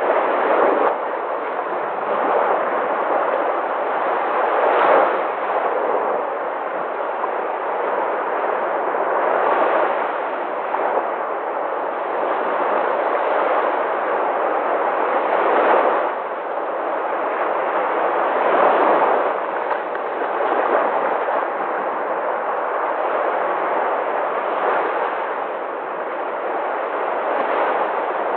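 Sea waves breaking on a shore: a continuous rush of surf that swells and eases every few seconds as each wave comes in.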